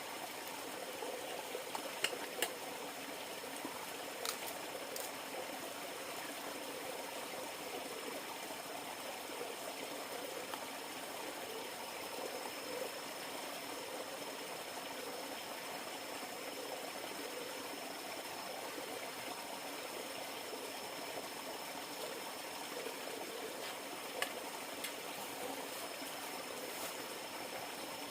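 River water flowing steadily in a continuous rushing trickle, with a faint steady high tone above it and a few short sharp clicks, two about two seconds in, one about four seconds in and one near the end.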